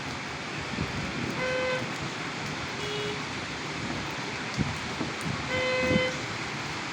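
Heavy rain falling steadily, with a car horn honking briefly twice, about a second and a half in and again near the end, and a fainter short toot in between.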